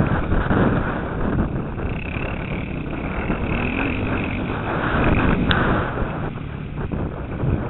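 Motocross bike engine running under way, heard from a helmet camera with wind rushing over the microphone, plus a brief sharp click about five and a half seconds in.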